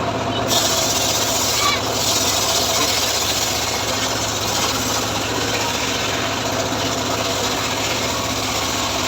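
Engine-driven homemade sawmill cutting through a sengon log: a steady, even rasping of the blade in the wood starts about half a second in, over the engine's steady running.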